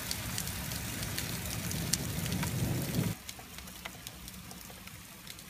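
Heavy rain falling in a thunderstorm, a steady hiss broken by many sharp raindrop ticks. About three seconds in it drops suddenly to a quieter patter.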